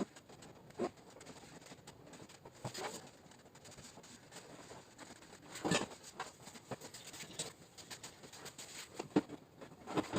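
Faint, irregular knocks, clicks and scrapes of paintless dent repair tools working the metal of a Toyota RAV4 tailgate, a few sharper knocks about six seconds in and near the end.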